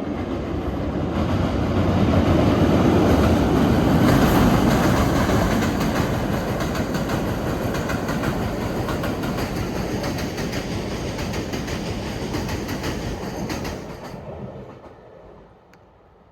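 Train passing close by, its wheels clattering over the rail joints. The sound swells to its loudest in the first few seconds, holds steady, then fades away near the end.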